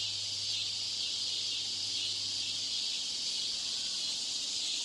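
Steady high-pitched hiss with a low hum underneath that fades out about halfway through: background noise laid over a listening-test recording to imitate a poor exam-room broadcast.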